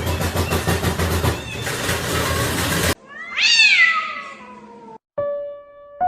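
A dense, pulsing rumbling noise cuts off suddenly about three seconds in. It is followed by a cat's loud meow that rises and then falls away. Near the end, piano notes begin.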